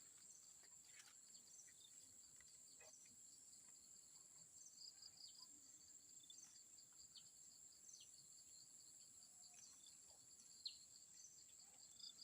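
Faint insect chorus: a steady high-pitched buzz with crickets chirping in repeated short trills, plus a few faint ticks.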